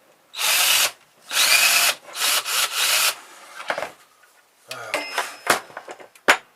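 Power drill running in short spurts, three or four in the first few seconds, then another brief run about five seconds in, with a single sharp click near the end.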